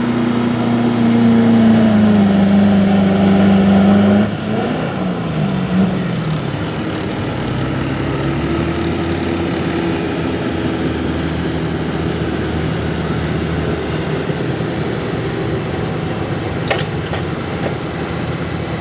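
Diesel 4x4 pulling truck engine held at high, steady revs. About four seconds in the throttle is cut and the revs fall away, settling into a lower, steady running sound. A short click comes near the end.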